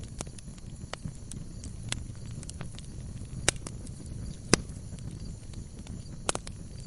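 Wood logs burning in a fireplace: irregular sharp crackles and pops over a low steady rumble of the flames. The loudest pops come about halfway through, with a quick double pop near the end.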